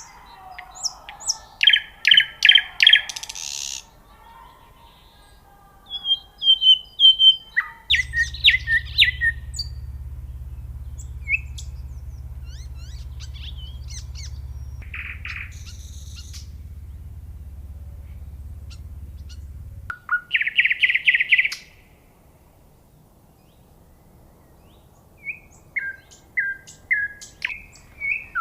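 Nightingale singing: separate phrases of fast repeated notes, trills and clear whistles, with pauses between the phrases. A steady low hum sits beneath the song for a stretch in the middle.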